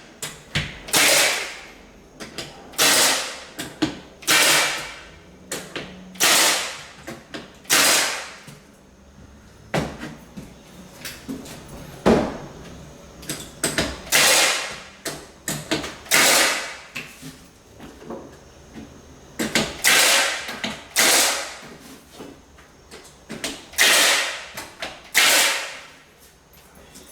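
Repeated short sliding and knocking sounds of wood, about one every second or two, as pre-cut hardwood floor strips are handled and fitted into place, with one sharper knock about midway.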